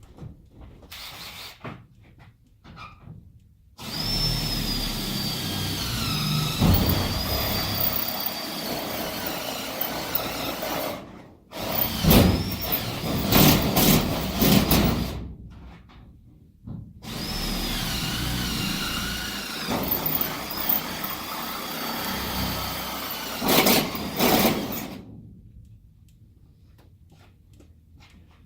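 Cordless drill running under load as it bores holes, in two long runs of about eleven and eight seconds. The motor's high whine sags and wavers as the bit bites.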